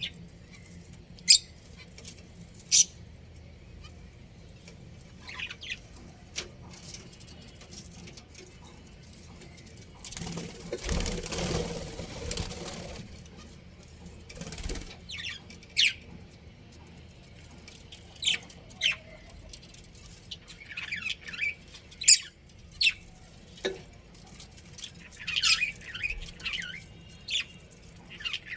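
Budgerigars chirping in short, sharp, high calls scattered through, coming thicker toward the end, with a flurry of wing flapping lasting about three seconds around ten seconds in.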